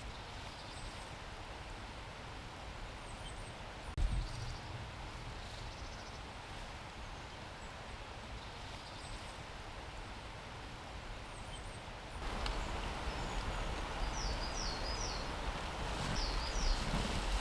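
Outdoor woodland ambience with small birds giving short, high chirps. There is a single soft thump about four seconds in. Past the middle the background gets louder and the chirps come closer and clearer.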